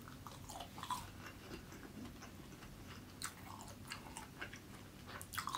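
A person chewing a mouthful of fried rice close to the microphone, with irregular small wet mouth clicks and smacks.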